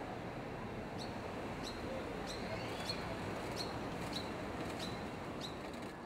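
A bird repeating a short, high chirp about eight times at an even pace, starting about a second in, over a steady hiss of outdoor ambience.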